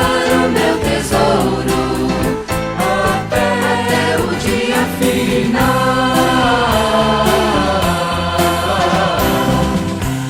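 Gospel vocal group singing in harmony over a band with bass and drums.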